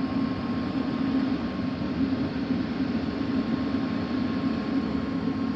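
HVAC indoor air handler running: a steady, even hum of air and blower with a faint constant high tone over it.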